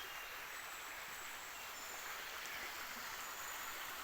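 River water running, a steady rushing hiss, with faint birdsong high above it.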